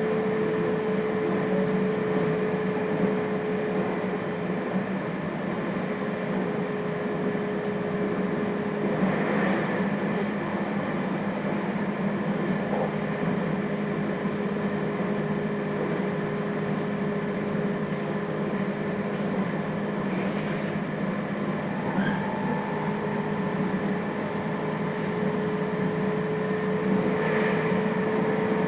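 Interior running sound of a JR Hokkaido 721 series electric multiple unit motor car with thyristor phase control, running at a steady speed. It makes a continuous rolling noise with two steady hum tones, and a higher tone joins about two-thirds of the way through. A few faint clatters come through.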